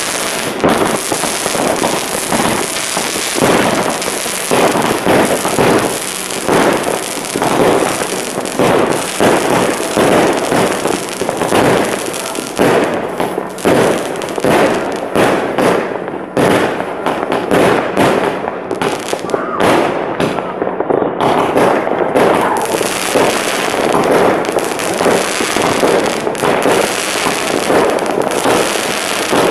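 New Year's Eve fireworks going off without a break: rockets and firecrackers banging and crackling over one another.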